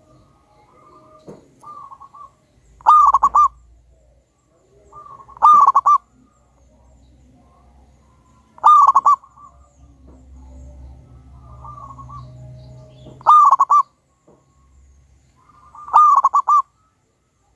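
Zebra dove (perkutut) cooing loudly: five stuttering coo phrases a few seconds apart, each a quick run of notes lasting under a second, with fainter coos between them.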